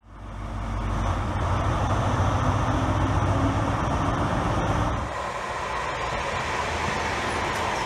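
A High Speed Train's diesel engine running at a platform with a steady low hum, fading in at the start. At about five seconds it cuts to the lighter rumble of a Class 323 electric multiple unit running along a platform.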